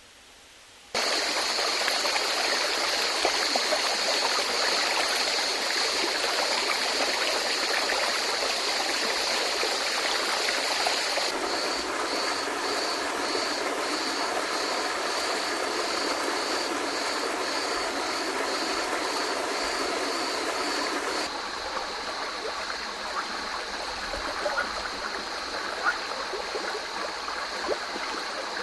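Water of a rocky stream running, a steady rushing that starts abruptly about a second in. Through the middle a high, regular pulsing call sounds about twice a second over the water. Near the end it gives way to a softer flow with a few clicks.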